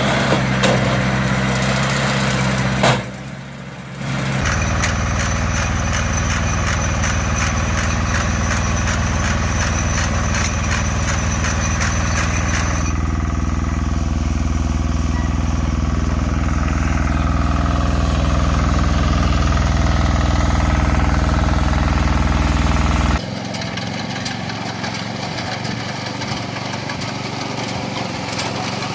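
Tractor engine running under load while driving a hay baler, heard across several spliced clips. For several seconds there is a regular mechanical clatter a few times a second, typical of the baler's working strokes.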